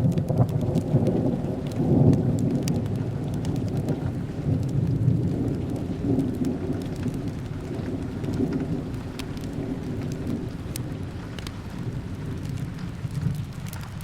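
A roll of thunder: a low rumble that starts suddenly, swells about two seconds in and slowly dies away. Under it, steady rain falls and a fire crackles in scattered sharp pops.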